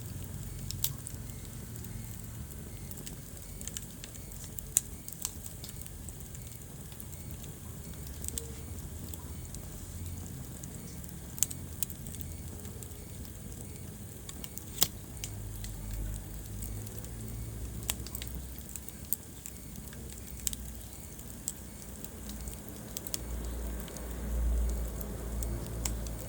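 Wood fire crackling in a fireplace: scattered sharp pops and snaps over a low rumble of burning, with the rumble swelling near the end.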